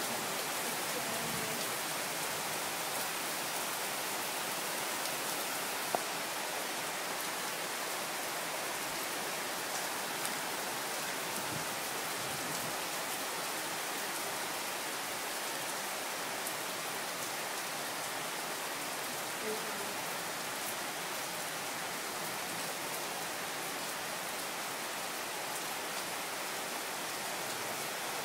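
Rain pouring down steadily, heard from inside a trail shelter as an even hiss, with a single sharp tick about six seconds in.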